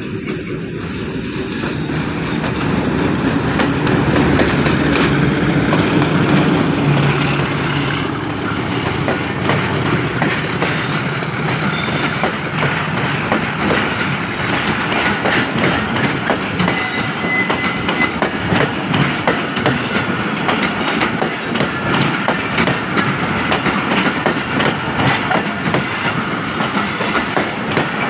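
Pakistan Railways diesel locomotive passing close by, its engine hum growing and loudest a few seconds in. The passenger coaches then roll past with a steady, rapid clatter of wheels over the rails.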